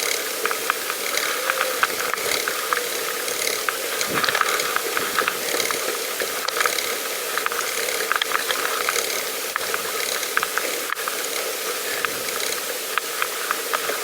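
Bicycle rear freewheel ticking as the bike coasts: a fast, continuous run of clicks from the hub's ratchet pawls, over a faint steady hum.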